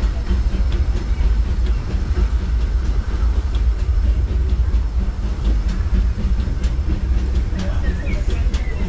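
Disneyland Railroad narrow-gauge steam train running, heard from a passenger car: a heavy, steady low rumble with scattered clicks from the wheels and track.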